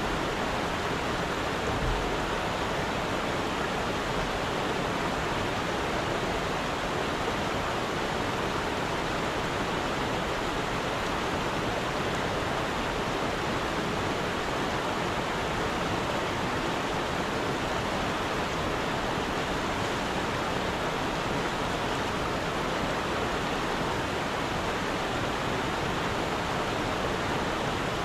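Steady rush of stream water, an even hiss with no breaks.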